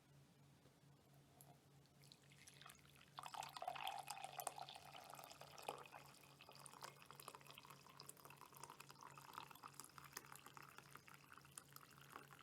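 A drink being poured into a cup, starting about three seconds in. It runs on as a splashing, trickling stream whose pitch slowly rises as the cup fills.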